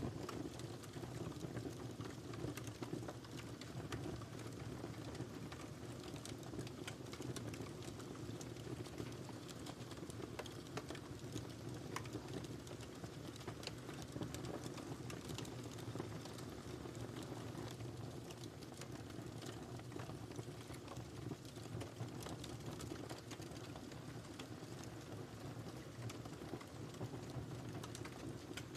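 Wood fire crackling in a fireplace: frequent small irregular pops and snaps over a steady low rumble of burning.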